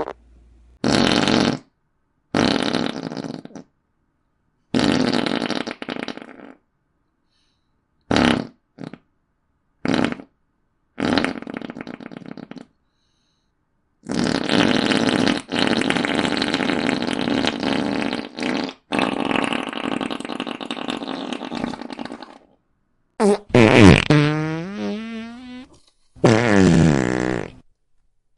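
A run of about ten comedic fart sound effects played one after another with short silent gaps, some brief, one long and drawn out for several seconds in the middle. Near the end comes a creaky fart whose pitch slides up and down.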